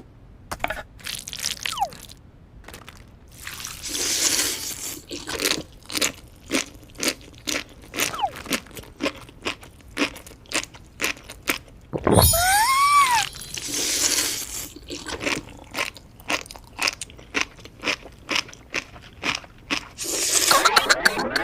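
Close-miked crunchy chewing: crisp bites and crunches repeating about twice a second. About twelve seconds in, a short pitched tone rises and falls.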